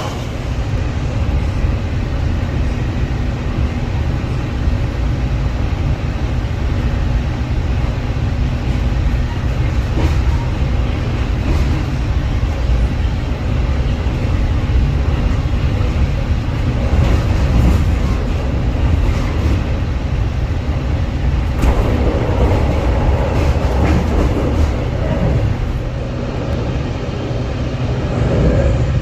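Train running, a steady loud low rumble throughout.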